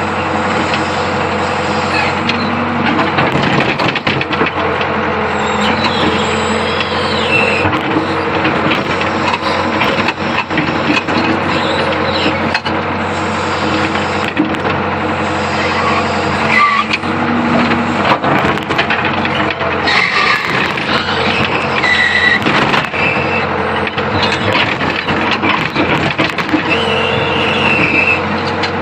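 Old Hitachi UH025 excavator running steadily, its engine holding an even drone, with short high squeals now and then on top.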